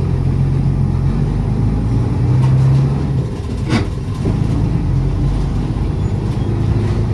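City route bus's diesel engine running under way with road noise, heard from inside the bus. The engine note swells a little about two to three seconds in, then eases, and there is a single sharp knock or rattle near the four-second mark.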